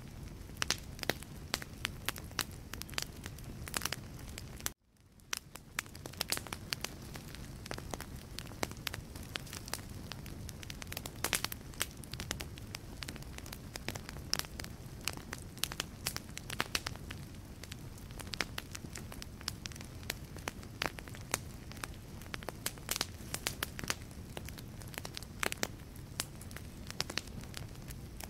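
Wood logs burning in a fireplace, crackling with frequent sharp pops over a steady low hiss of the flames. About five seconds in, the sound cuts out abruptly and fades back in over about a second.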